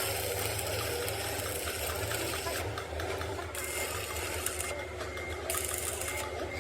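Steady mechanical hum of a running machine, with a constant low drone and a thin steady tone, without breaks.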